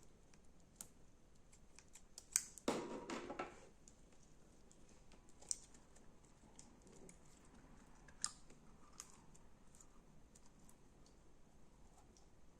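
Slime being handled, giving faint scattered sticky clicks and pops, with a short crackling crunch about three seconds in.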